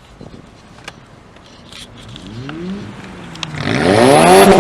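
A car engine revving hard as it accelerates. There is a short rising rev about halfway through, then a louder rev that climbs and holds near the end as the car comes close.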